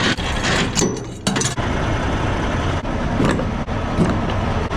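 A truck's engine running steadily, with a few short clinks and knocks over it, mostly in the first second and a half.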